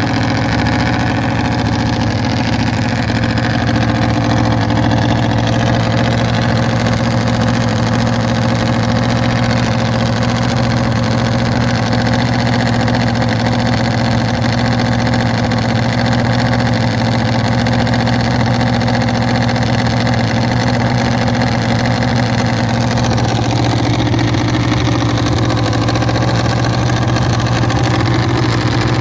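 Nitro-fuelled Triumph hill-climb motorcycle engine running loud and steady at idle, its note shifting slightly near the end.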